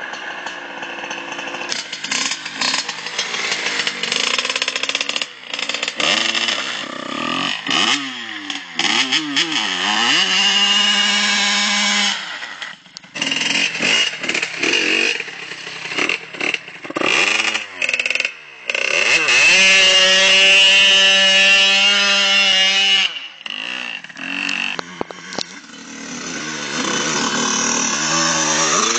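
Yamaha YZ80's 80cc two-stroke engine revving up and down as the dirt bike is ridden, with rapid throttle changes and abrupt drops in level. It is held at high, steady revs for a couple of seconds about ten seconds in, and again for about four seconds about twenty seconds in.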